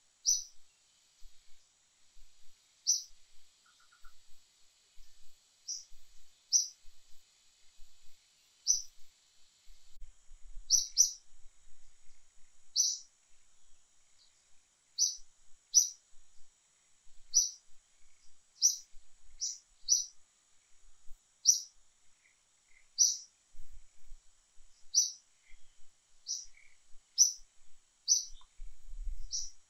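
A bird repeating a short, sharp high chirp about every one to two seconds, sometimes twice in quick succession, over a faint steady high hum.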